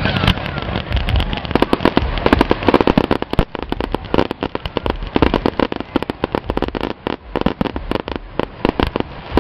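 Aerial fireworks bursting overhead: a dense run of crackling pops and bangs, many a second. The pops are thickest in the first half and thin out toward the end.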